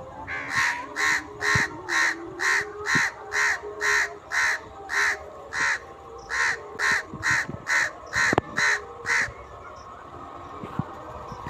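A crow cawing over and over, about two harsh calls a second, stopping about nine seconds in.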